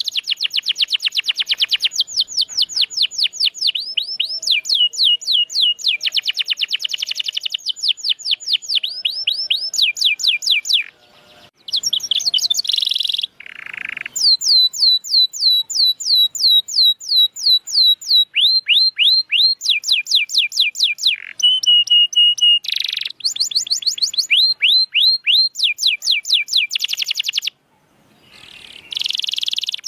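Domestic canary singing a long song of rapid trills, each a fast run of repeated downward-sweeping notes, switching to a new trill every second or two. The song breaks off briefly about a third of the way in and again near the end.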